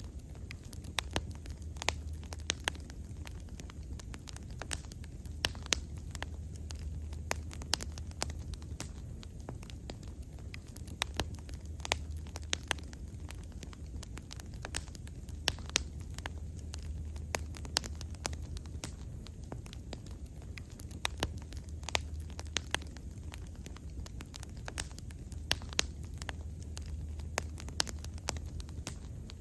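Wood fire burning, with frequent irregular sharp crackles and pops over a low steady rumble of flame.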